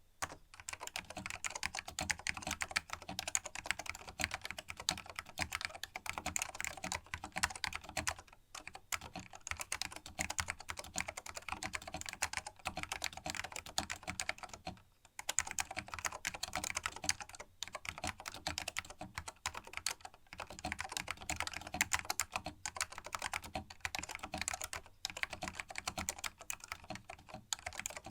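Fast continuous typing on a vintage Canon keyboard with linear green Alps switches, the clicks of the keys running together with short pauses about eight and fifteen seconds in. The switch springs are lubed, which tames their pinging.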